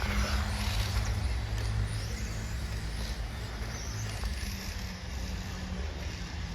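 1/10-scale RC touring cars running on the track, a high motor whine rising and falling as they pass, over a steady low hum.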